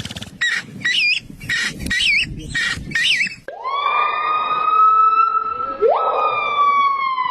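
Bird calls: a run of about five short, wavering calls, then one long, steady, whistle-like call that slowly falls in pitch, with a second call sliding upward partway through it.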